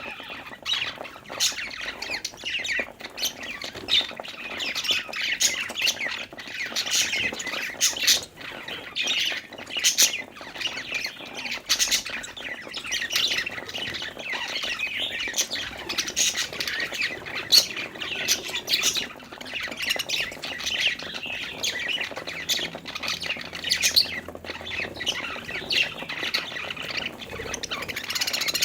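Several budgies chirping, chattering and squawking continuously, with frequent sharp, high calls.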